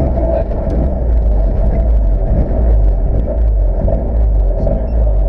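Rally car's engine running, heard from inside the cabin as a steady, low, loud sound.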